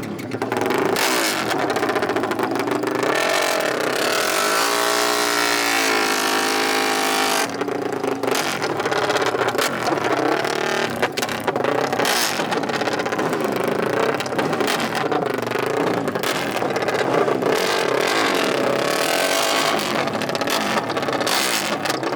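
Dirt bike and ATV engines revving, their pitch climbing and dropping, with more than one engine running at once. One engine climbs clearly through the revs about four seconds in.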